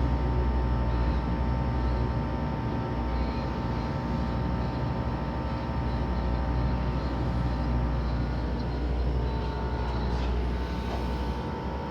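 Tracked excavator's diesel engine running steadily as the machine manoeuvres on the street: a low rumble with a steady whine above it, easing off slightly near the end.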